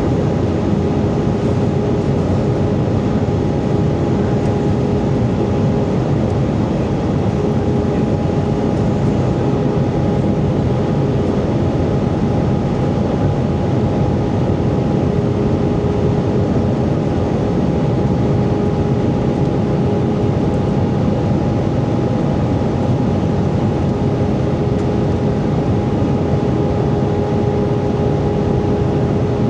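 Steady cabin noise inside an Airbus A320 in flight: the engines and rushing air make an even rumble with a constant hum, and a lower tone fades in and out.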